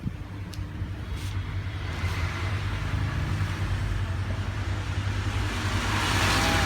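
Road traffic: a steady low engine hum, with a vehicle's noise swelling as it passes about six seconds in.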